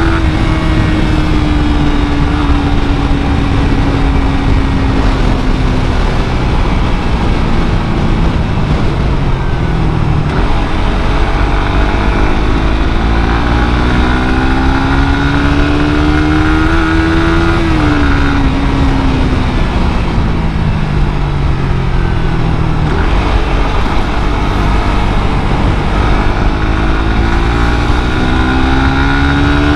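Suzuki GSX-R150's single-cylinder engine through its stock exhaust, revving up and easing off in turn. The pitch falls slowly for the first several seconds, climbs from about ten seconds in, drops back, and climbs again near the end, over a steady rushing noise.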